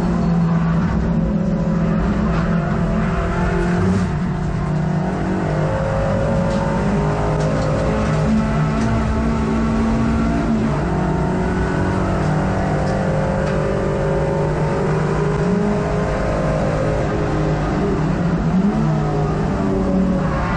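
Racing hot hatch engine heard from inside the cabin, running hard under race load, its pitch climbing and dropping repeatedly as the driver accelerates, shifts gear and lifts for corners.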